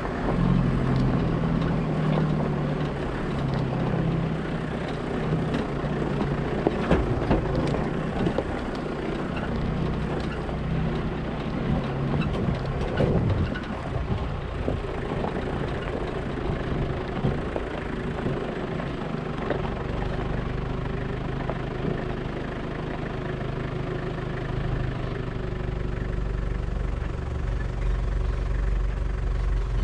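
A 4x4 vehicle's engine running as it is driven, its pitch shifting up and down, with a few sharp knocks around a quarter and near halfway through.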